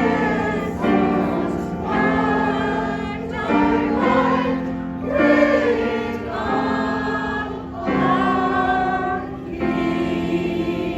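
Choir singing a slow song in long held phrases, the chords changing every second or two.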